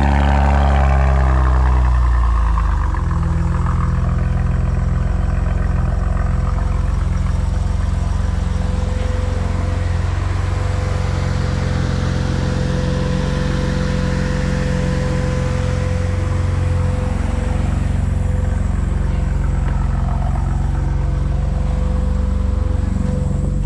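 BMW M4 (G82) exhaust note from its S58 twin-turbo straight-six. The revs fall away over the first two seconds or so, then the engine runs steadily at low revs.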